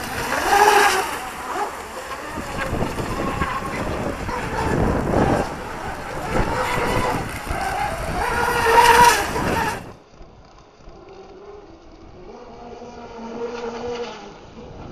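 Wind buffeting the microphone, with the whine of a small electric RC outboard motor rising and falling with the throttle. About ten seconds in, the sound drops suddenly to a quieter, duller whine.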